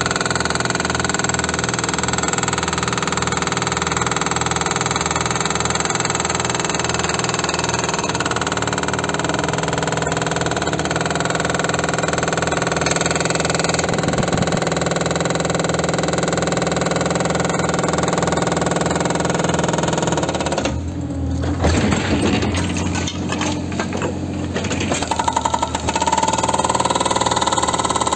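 An engine running steadily with a regular low pulse. About 21 seconds in the steady sound drops away and becomes uneven for a few seconds, then settles back.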